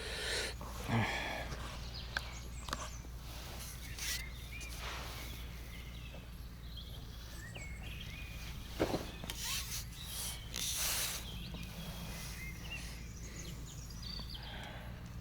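Quiet outdoor ambience with scattered short bird chirps over a steady low rumble, broken by a few brief rustles and knocks, the sharpest about nine seconds in.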